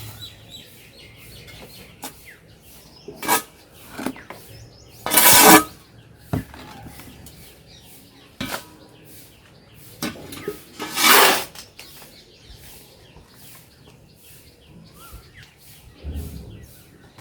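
Gardening work with soil and pots: a string of short handling noises, the loudest about five and eleven seconds in, with faint bird chirps in the background.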